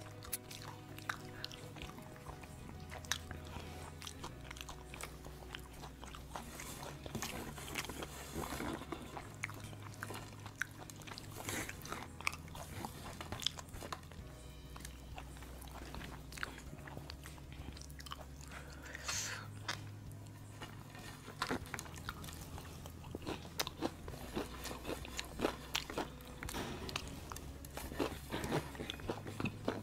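Quiet close-up crunching and chewing of crispy fried-chicken crumbs, a run of short sharp crunches and clicks, over background music with slow, held bass notes.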